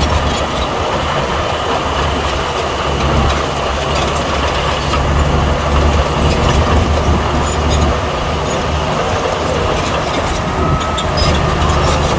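Bulldozer's diesel engine running steadily under load, a deep continuous drone with grinding machine noise over it.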